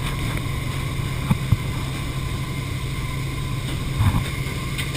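Steady drone of a jump aircraft's engine with rushing wind, and a couple of short knocks about a second and a half in.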